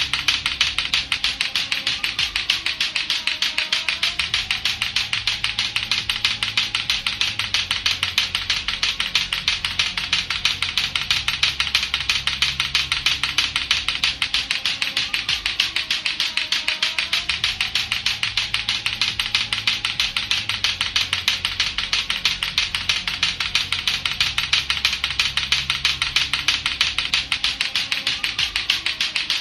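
Latto-latto clacker balls knocking together in a rapid, even, unbroken run of hard plastic clacks. A low musical backing loops underneath.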